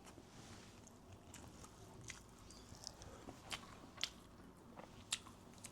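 Faint chewing of food, with a few soft mouth clicks and smacks spaced irregularly.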